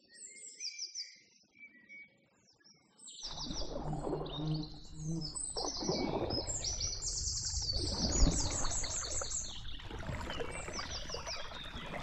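Many small wild birds chirping and singing in repeated short phrases. About three seconds in, a steady rushing outdoor noise joins under the birdsong, with one brief thump near the end of the second third.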